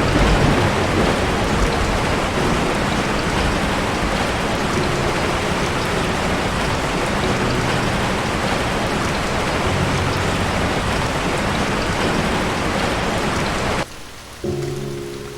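Steady, loud rainfall, a dense even hiss of rain on surfaces, that cuts off suddenly near the end. Soft music with held notes follows.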